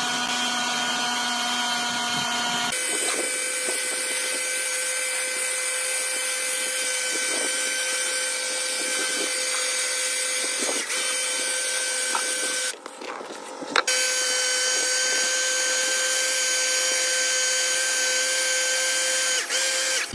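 Electric power tool running at a steady speed with a constant high whine, stopping for about a second a little past halfway and then running again.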